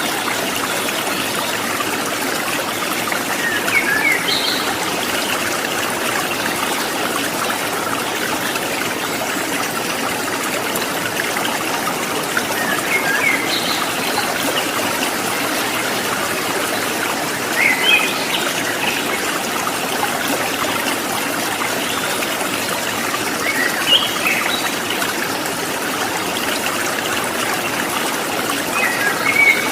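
Water trickling and splashing steadily, like a small stream, with a short bird call of a few quick chirps about every five or six seconds.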